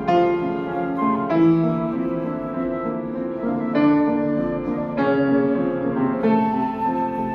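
Piano playing a slow instrumental piece, with a new chord struck about every second and a quarter and left to ring.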